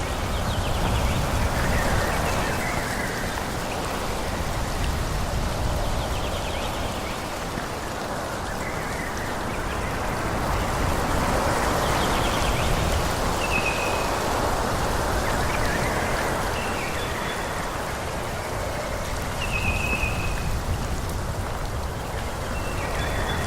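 Wind through forest trees: a steady rushing noise that swells and eases slowly, with a low rumble underneath. A few short high chirps come through in the second half.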